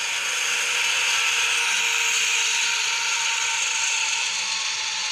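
Freight train passing: the steady noise of its steel wheels running on the rails.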